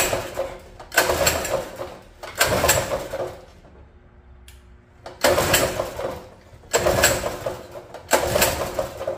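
Predator small engine being pull-started six times, three quick pulls, a pause, then three more. Each pull is a short cranking whir that dies away without the engine catching, which the owner puts down to a fuel supply problem.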